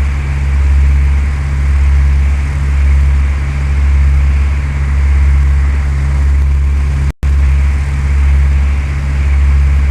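Cessna 172's piston engine and propeller droning steadily, heard in the cabin, with a slow swell and fade about once a second. The sound cuts out for an instant about seven seconds in.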